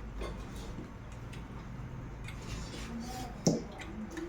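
Close-miked eating sounds: chewing and small mouth clicks scattered through, with one louder, sharper sound about three and a half seconds in.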